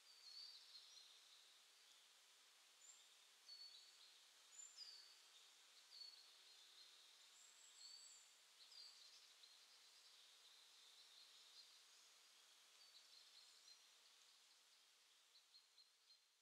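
Faint birdsong: short high chirps and little whistles every second or so over a faint steady hiss, growing fainter toward the end.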